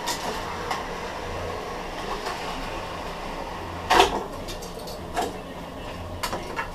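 A few scattered knocks and clatters from handling things at a workbench, the loudest about four seconds in, over a steady low hum.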